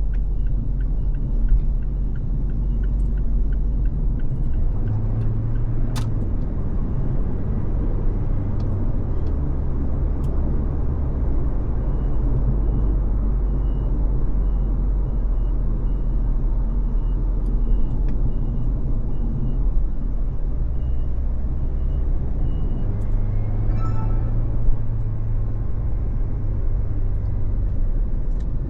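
Car cruising on a freeway: a steady low rumble of tyres, engine and wind. A light high ticking repeats about twice a second for roughly ten seconds in the middle, and there is a single sharp click about six seconds in.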